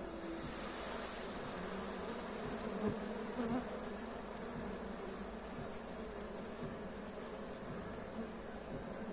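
Honey bees buzzing: a steady drone of many bees, with two brief louder buzzes about three seconds in as bees pass close.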